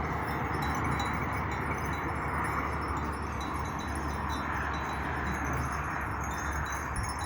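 Bells on grazing Chios sheep tinkling irregularly, many small rings overlapping, over a steady rushing hiss.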